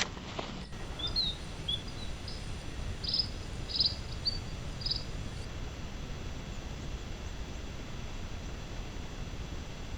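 Outdoor ambience: a steady low wind rumble on the microphone, with a run of short high chirps over the first half, some gliding and some in quick pulsed groups.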